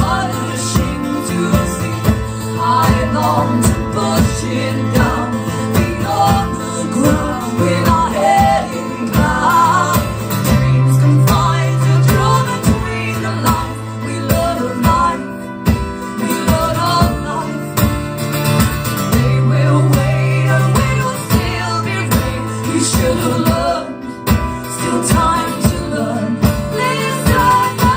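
Live acoustic guitar music playing an instrumental stretch of the song with a steady strummed rhythm over sustained bass notes.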